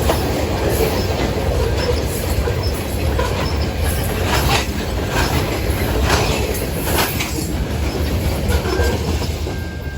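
Manifest freight train passing at speed close by: a steady heavy rumble of wheels on rail, with sharp clacks at uneven intervals as the wheels run over rail joints.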